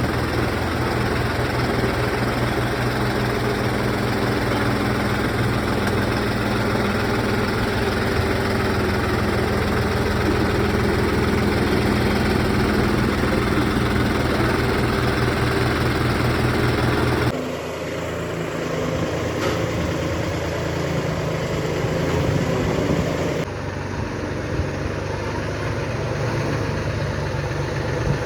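Tractor engine running steadily at a low, even speed. The sound changes abruptly twice, about two-thirds of the way through and again a few seconds later, as if cut between takes.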